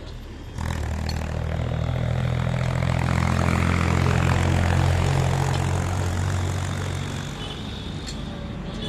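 Low, steady engine drone that starts abruptly about half a second in, grows louder toward the middle, then eases off near the end.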